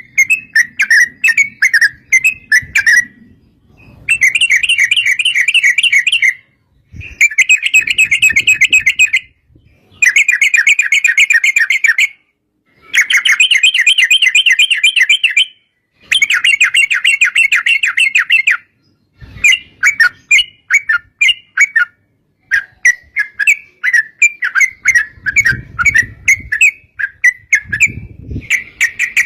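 Yellow-vented bulbul (trucuk) giving long, rapid chattering runs of repeated notes, each run lasting two to three seconds with short pauses between, turning into more broken, separate calls in the last third. This is the long rolling 'ropel' chatter of a trucuk in full song.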